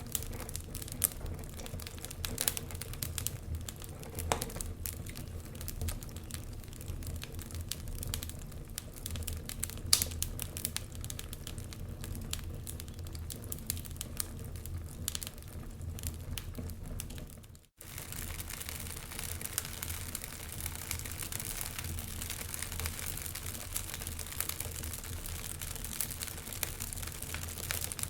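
Log fire crackling, with frequent sharp pops and snaps over a steady low rumble. The sound cuts out for an instant about two thirds of the way through, then the crackling resumes more densely.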